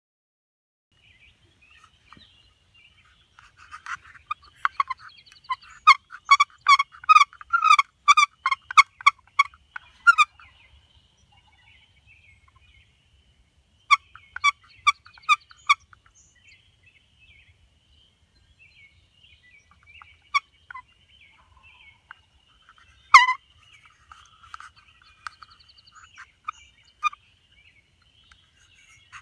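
Bird calls given in quick evenly repeated series, loudest from about four to ten seconds in and again around fourteen seconds, with one sharp single call about twenty-three seconds in, over a faint steady chorus of frogs.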